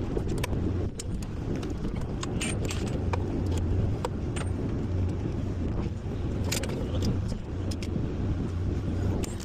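An engine running steadily with a low hum, with scattered metallic clicks and clinks over it.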